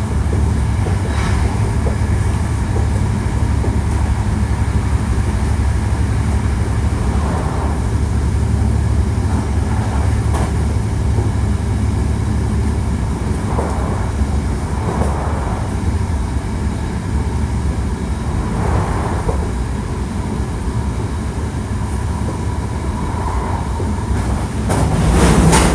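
Hankyu 1300 series electric train running at speed, heard from inside the car: a steady rumble of wheels on the rails with a faint steady tone, growing louder near the end.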